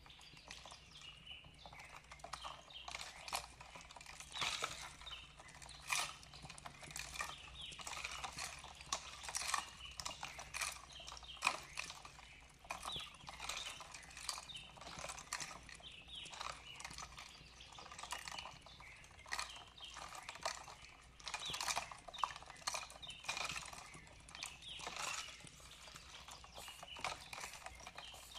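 Wood fire crackling in a fireplace: a dense, irregular run of sharp snaps and pops.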